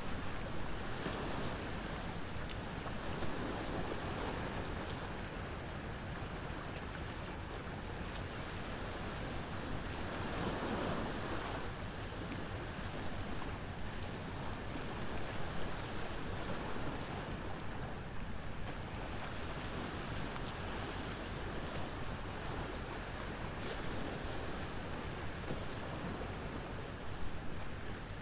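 Ocean waves washing in and drawing back in a steady surging wash, one swell louder about ten seconds in, with an occasional small crackle from a wood bonfire.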